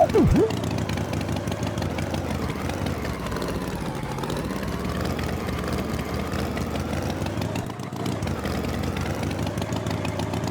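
An engine idling steadily with a slight dip in pitch midway. It opens with a quick whistle-like swoop down and back up.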